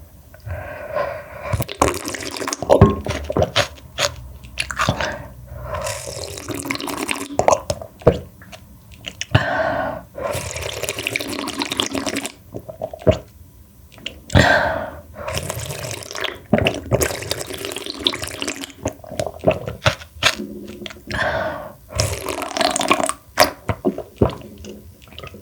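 Close-up eating sounds: wet slurping of spicy mussel soup and porridge, in repeated irregular bursts, with occasional sharp clicks.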